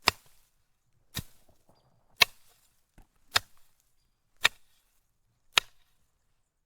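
A series of six sharp knocks or strikes, evenly spaced about once a second, each dying away quickly, then they stop.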